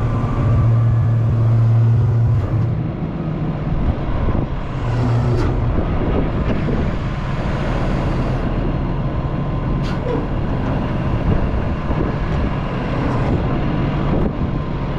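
Diesel engine of a heavy machine running steadily while its hydraulics work. The engine note swells under load for the first couple of seconds and again briefly around five seconds in, with a few sharp knocks.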